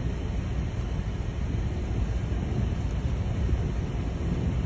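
Steady low rumbling noise of wind and a vehicle, with no siren to be heard.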